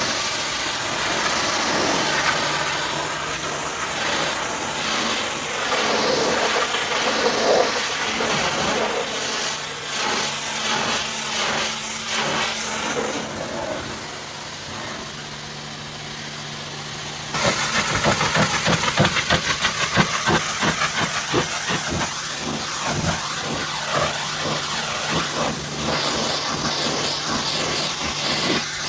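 High-pressure washer spraying water, a loud steady hiss over the low hum of the machine. About 17 seconds in the spray turns abruptly louder and choppier.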